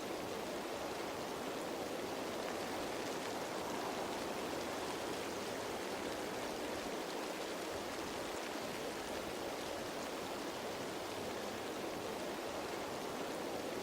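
Steady rain falling on leaves, an even hiss with no let-up.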